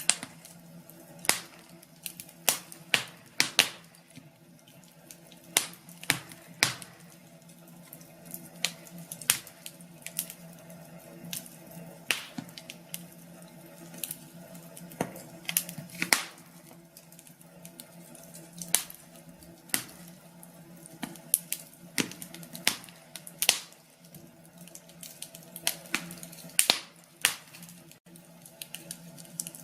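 Wood fire in a fireplace crackling and popping: irregular sharp snaps, sometimes several a second, over a faint steady low hum.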